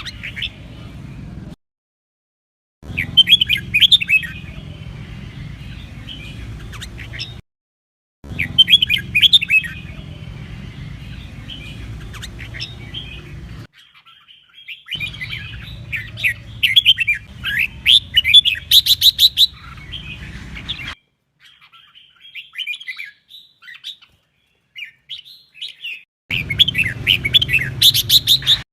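Red-whiskered bulbul singing rapid chirping phrases over a steady low hum. The song comes in stretches of a few seconds that cut off abruptly into silence and start again.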